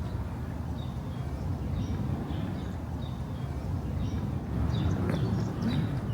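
Street ambience: a steady low rumble of traffic, swelling a little near the end, with small birds chirping over it in short repeated notes.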